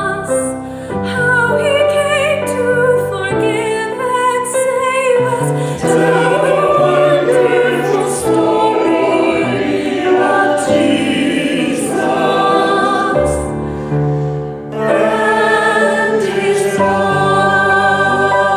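Choir singing a sacred piece with instrumental accompaniment.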